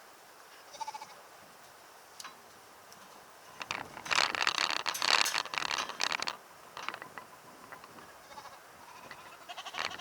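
A dog vocalizing in a loud burst of about two and a half seconds near the middle, with fainter scattered clicks and noises before and after.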